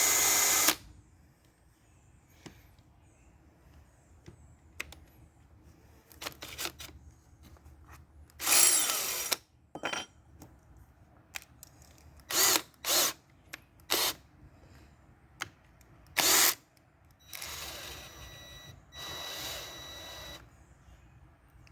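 Ryobi One+ cordless drill motor run in a series of trigger pulls. There are several short whirring bursts, then two longer runs of a second or more near the end.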